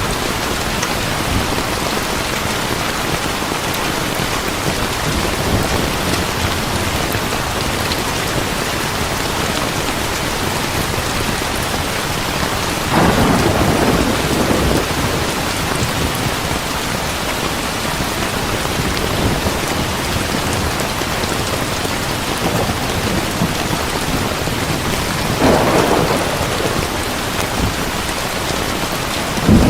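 Heavy rain falling steadily, with a louder clap of thunder about halfway through and another near the end.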